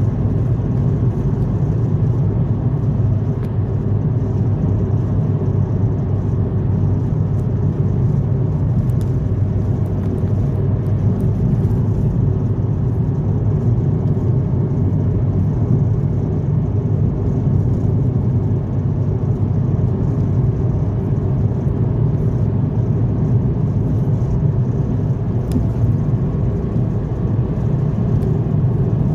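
Car driving at steady speed: a low, even rumble of engine and tyres on the road.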